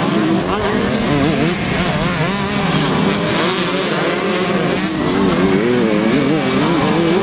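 Two-stroke 125 cc motocross bike engines racing, revving up and down quickly as the riders work the throttle, with more than one engine heard at once.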